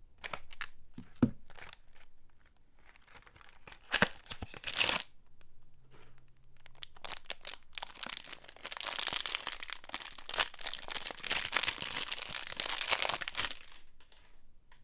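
Soap packaging being torn open and crinkled by hand as soap bars are unwrapped: a few sharp snaps and crackles early, then a long stretch of dense crinkling that stops about a second before the end.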